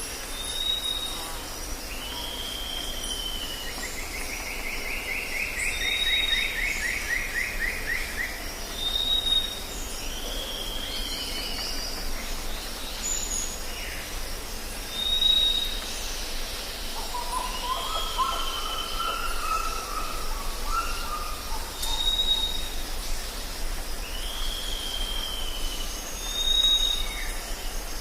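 Tropical forest ambience: several birds calling over a steady high-pitched buzz. A short high whistle repeats about every three seconds, alternating with downslurred calls, a rapid trill about four seconds in and a lower warbling phrase about two-thirds of the way through.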